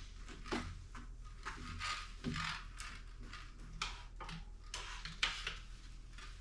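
Irregular light clicks, knocks and scrapes of bike parts being handled, with a few longer scraping or hissing sounds. The sharpest knock comes about five seconds in.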